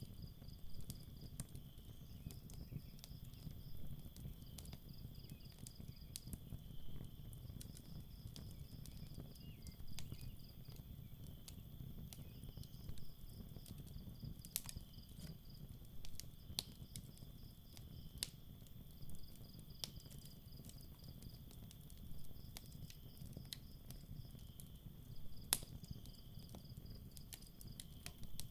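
Campfire crackling with scattered sharp pops, over crickets chirping in repeated pulsed trills and a steady insect drone, with a low rumble underneath.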